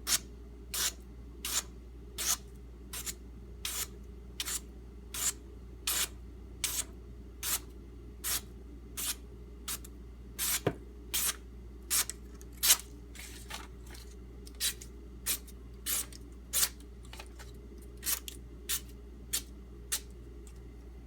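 Knife blade drawn over a whetstone in regular strokes, a short scrape about every 0.7 seconds with a couple of brief pauses, while the bevel is ground convex and thinned toward a polish. A steady low hum runs underneath.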